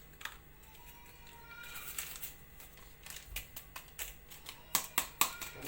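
Scattered sharp clicks and taps of a utensil against a mixing bowl, louder and closer together near the end, as flour and baking powder are added to a cake batter.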